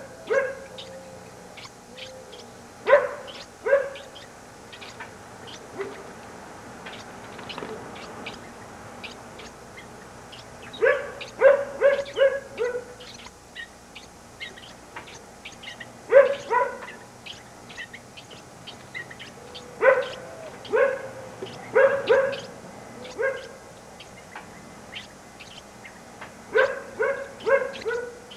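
Short yelping animal calls in quick bursts of two to five, repeated every few seconds, with faint high chirps between them.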